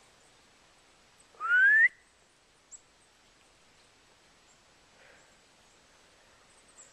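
A person's single short rising whistle, calling a dog back; the rest is quiet outdoor background.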